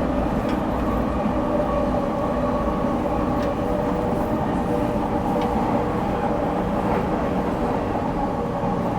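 JR 209 series electric train running at a steady speed: a continuous rumble of wheels on rail with a steady, even motor hum and a few faint clicks.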